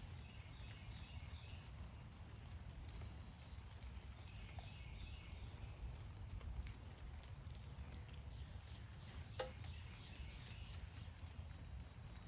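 Faint backyard ambience of wild birds: a short, high chirp repeated every few seconds and brief patches of softer twittering over a steady low rumble. A single sharp click sounds about nine seconds in.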